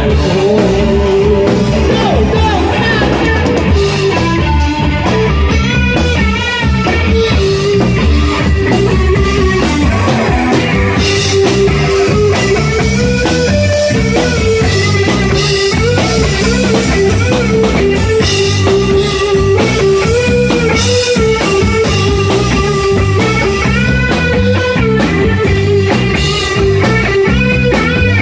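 Rock band playing live: guitar over drum kit and bass in a blues-rock groove, with bending melodic lines.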